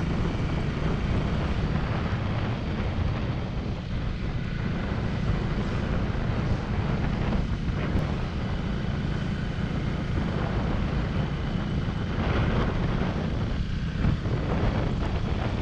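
Motorcycle ridden at a steady speed: the engine runs with a steady low rumble under wind noise on the microphone.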